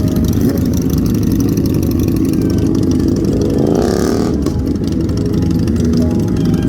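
Motorcycle engine running, briefly revving up about four seconds in.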